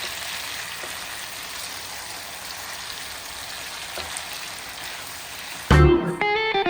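Steady sizzle of food frying in hot oil, with a few faint crackles. Loud music with plucked guitar cuts in near the end.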